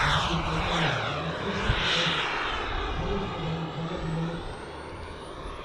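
RC model jet's turbine engine passing by: a loud rushing jet noise with a thin high turbine whine, fading as it moves away.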